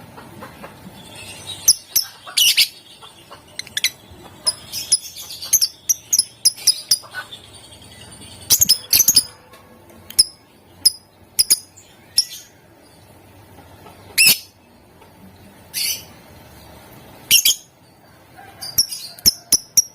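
Lovebirds giving sharp, shrill chirps in irregular bursts, some bunched into quick runs of calls.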